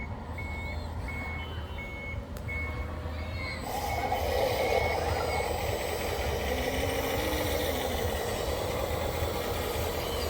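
Reversing alarm of a radio-controlled construction machine, a string of evenly spaced high beeps that stops about five seconds in. About four seconds in a louder steady whirring noise from the machine starts and carries on.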